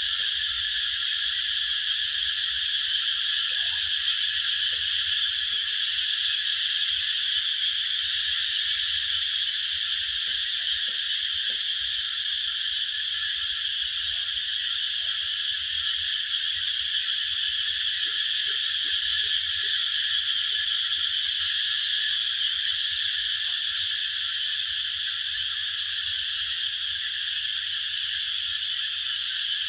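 A steady, dense chorus of high-pitched animal calls, unbroken and even in level throughout.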